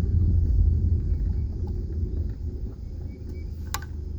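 Low rumble of a car heard from inside the cabin while driving slowly, easing off about halfway through as the car slows. A single sharp click comes near the end.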